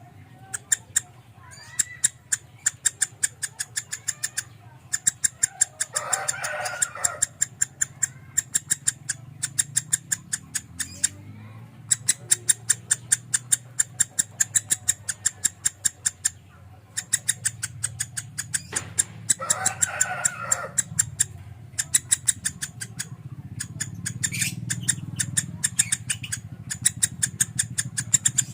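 Lovebird singing in the 'konslet' style: long runs of rapid, sharp, high chips, about eight to ten a second, broken by short pauses. Twice, about six seconds in and again near twenty seconds, a rougher, lower call cuts in over the chips.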